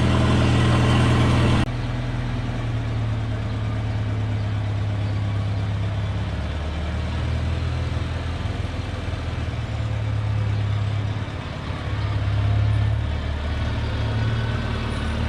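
Old tractor engine running steadily at idle after a hard start, the low, even note the owner calls purring like a kitten. Less than two seconds in, the sound suddenly drops in level and loses its upper range, then carries on steadily.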